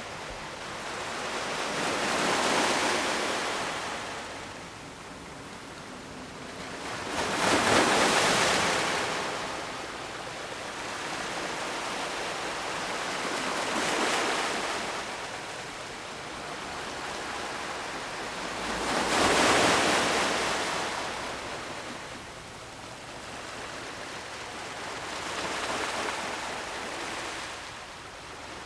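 Ocean waves breaking on a shore in slow surges every few seconds, each swelling into a rush of surf and washing away. The two biggest break about a third of the way in and about two thirds of the way in.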